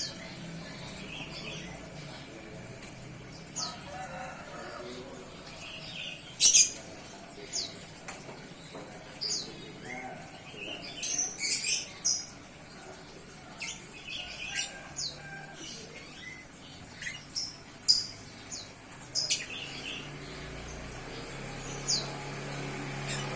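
Young ciblek gunung (prinia) giving scattered short, high chirps, some in quick clusters, loudest about six and eighteen seconds in. It is a fledgling just off hand-feeding, starting to find its voice. A low hum grows near the end.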